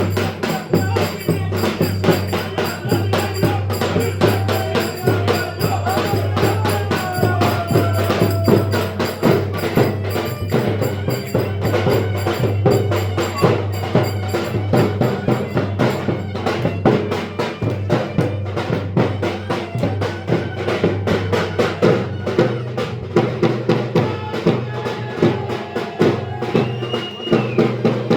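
Lively Turkish folk dance music (oyun havası) with fast, dense percussion and a wavering melody over it, and a steady low hum underneath.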